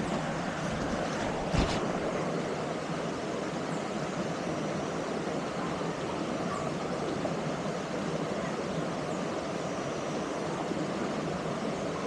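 Steady rush of a waterfall and its flowing water, with a single knock about a second and a half in.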